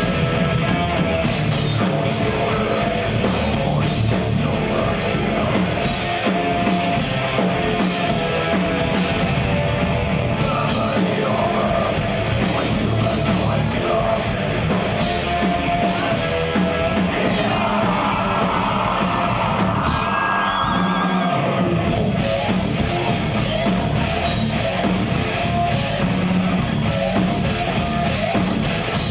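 Progressive death metal band playing live, a dense, loud wall of distorted guitars and drums.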